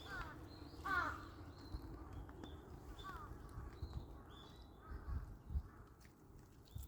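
Birds calling: a few short, falling calls, the loudest about a second in, with brief high chirps between them. A couple of low thumps come later.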